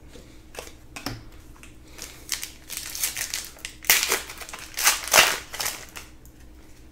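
Crinkling and rustling as packs of Panini Prizm basketball cards are handled, a string of short rustles that grows louder from about two seconds in.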